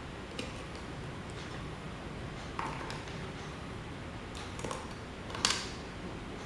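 A few scattered light clicks and taps, the sharpest about five and a half seconds in, over a steady low background hum.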